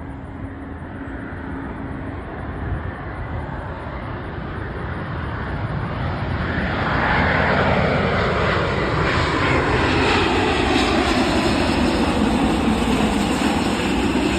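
Airbus A350's Rolls-Royce Trent XWB turbofan engines on landing approach, a jet rush that grows louder and peaks about halfway through as the airliner passes close by, with the sound sweeping downward in pitch.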